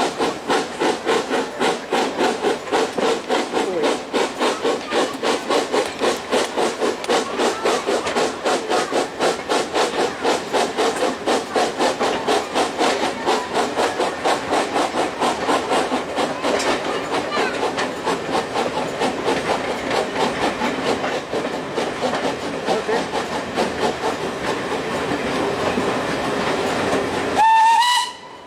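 Steam locomotive working hard, its exhaust beats coming in a fast even rhythm that gradually blurs together, with rail noise underneath. Near the end the locomotive's whistle sounds briefly, rising in pitch, the loudest sound here.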